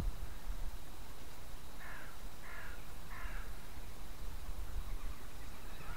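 A bird calls three times in quick succession, about two to three seconds in, over a steady low rumble of wind on the microphone.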